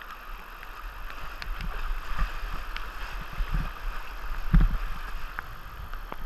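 River current rushing steadily past a kayak, with paddle strokes splashing and knocking now and then; the strongest knock comes about four and a half seconds in.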